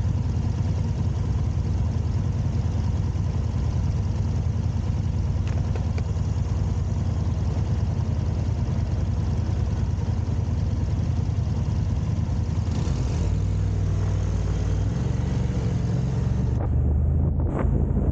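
Car on the move: a steady low rumble of engine and road noise, with the engine note shifting in a few steps from about 13 seconds in.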